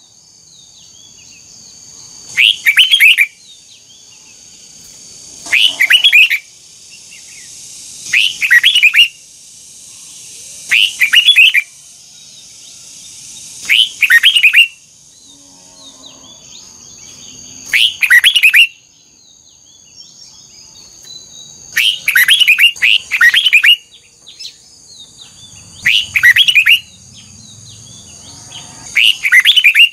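Red-whiskered bulbul singing short, loud warbling phrases, about ten of them, each under a second long, repeated roughly every three seconds.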